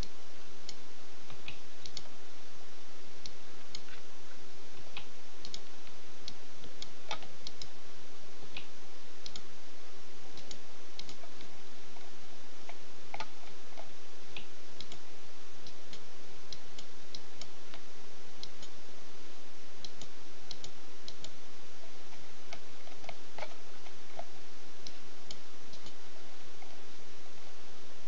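Irregular, scattered clicks of a computer mouse and keyboard, over a steady hiss and a low hum from the recording microphone.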